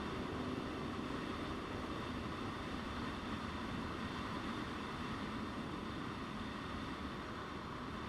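Motorcycle riding at a steady speed: constant wind rush on the microphone mixed with engine and road noise.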